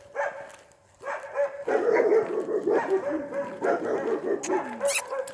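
Dogs barking at a passer-by, with rapid, repeated short barks and yips that come thick and fast from about a second in.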